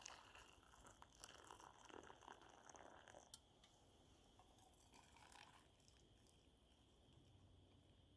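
Near silence: faint crackling and rustling for the first few seconds, one light click a little after three seconds in, then almost nothing.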